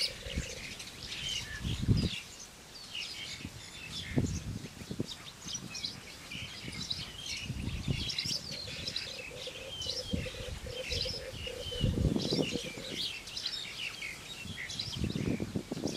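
Wild birds chirping and calling all through, with a few dull low knocks and thuds scattered among them.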